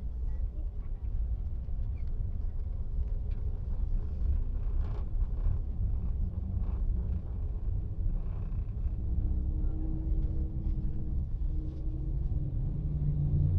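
A steady low rumble, like a running engine or wind on the microphone, with faint scattered knocks.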